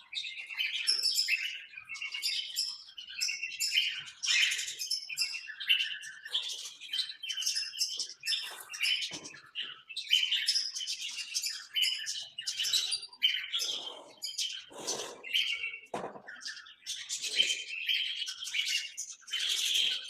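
A flock of small parrots in an aviary chirping and chattering continuously, many short calls overlapping.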